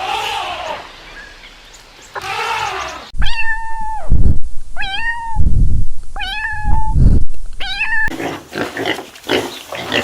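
A domestic cat meowing four times, each call a held tone that rises briefly at its start. Before it come two short bleats, and after it comes choppy, noisy grunting.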